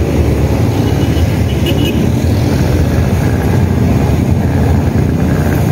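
Road traffic, cars and motorcycles, passing close by, heard from a moving bicycle, with a steady low wind rumble on the microphone.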